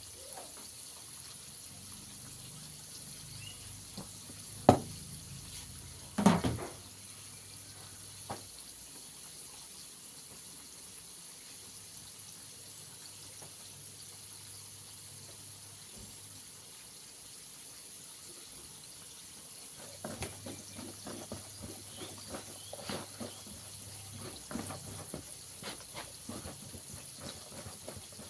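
Hands tossing and rubbing chicken pieces through dry flour in a bowl, with two sharp knocks about five and six seconds in and busy scratchy rustling over the last eight seconds.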